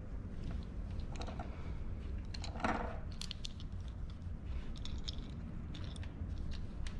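Small clicks and scratchy scraping from wires being worked into the terminals of a 13 A square-pin plug, loudest about two and a half seconds in, over a steady low hum.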